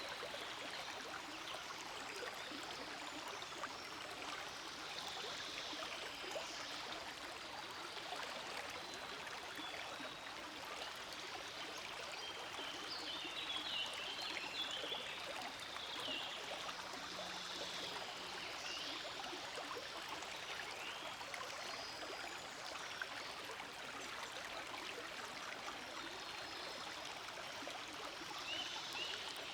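Forest stream flowing steadily, an even babble of running water, with a few brief high chirps about halfway through and again near the end.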